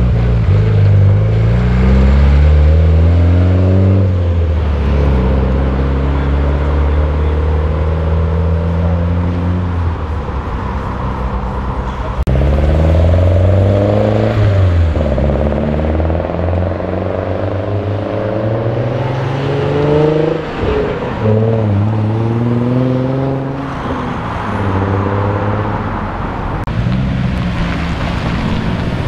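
Several Japanese performance cars accelerate away one after another, their engines revving up, easing off at gear changes and revving up again. The first and loudest is a Mitsubishi Lancer Evolution's turbocharged four-cylinder, rising in pitch until a gear change about four seconds in.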